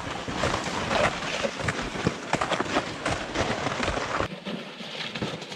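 Footsteps and loaded plastic toboggans dragging and scraping over bare ground, sticks and rocks where the snow has melted off, an irregular run of crunches and clicks. It eases off a little after about four seconds.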